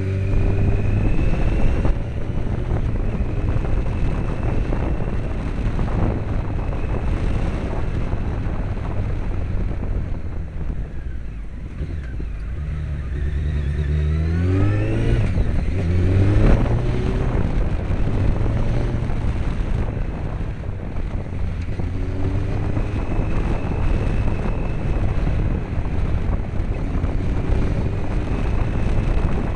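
Honda CBR900RR Fireblade's inline-four engine running steadily under way, its revs rising sharply about halfway through before settling back.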